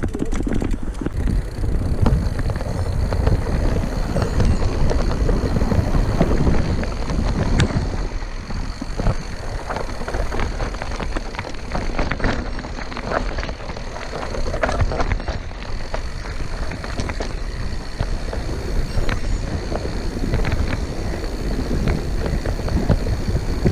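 Mountain bike riding over a rough forest trail: a continuous rumble of the tyres, with many short rattles and knocks from the bike, and wind buffeting the microphone.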